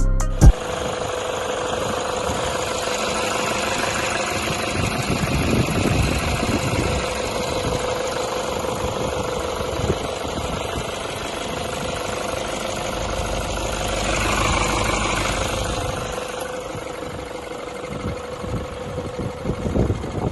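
Toyota Hilux's 3.0-litre four-cylinder diesel engine running at idle, a steady clattering hum with a faint swell about two-thirds of the way through.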